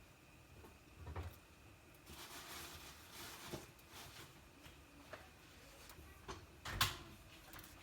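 Scattered knocks and clicks of things being handled in a kitchen, with a short hiss about two seconds in and a sharper knock near the end.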